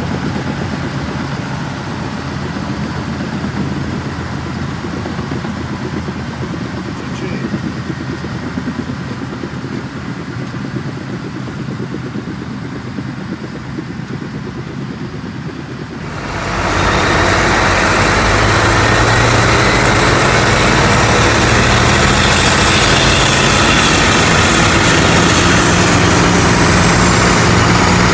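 Heavy diesel machinery running steadily. About sixteen seconds in, a much louder machine sound with a high whine takes over abruptly.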